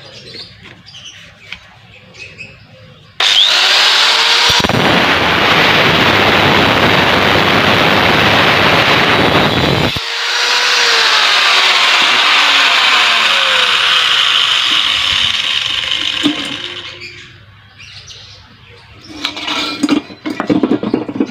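Angle grinder cutting into the steel shell of a refrigerator compressor: it starts abruptly about three seconds in, runs loud and steady for over ten seconds, and dies away about seventeen seconds in.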